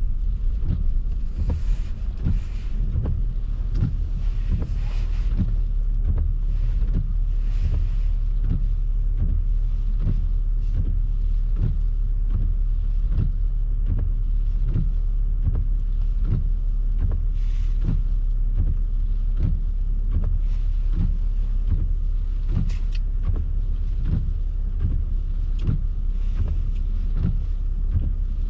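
A car driving on snowy city streets, heard from inside the cabin: a steady low rumble of engine and tyres, with a regular light ticking throughout. Now and then a brief hiss swells and fades.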